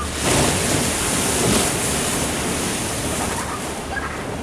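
An ocean wave breaking and washing against a sea wall: a surge of surf noise that starts suddenly, swells twice, then slowly eases off.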